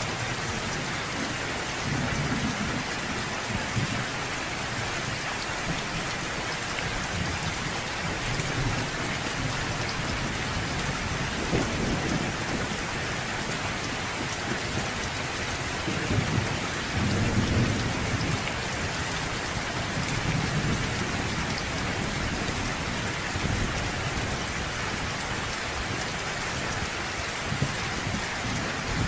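Thunderstorm: steady rain hiss throughout, with low rolls of thunder rumbling up and fading away several times.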